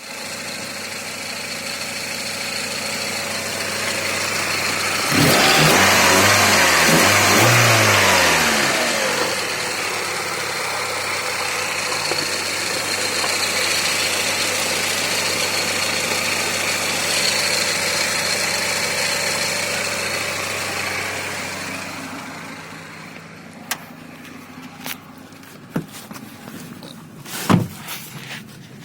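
Hyundai Lantra 2.0 four-cylinder petrol engine running, revved once about five seconds in with the pitch rising and falling back, then running steadily. After about twenty seconds the engine sound drops away and a few sharp knocks are heard near the end.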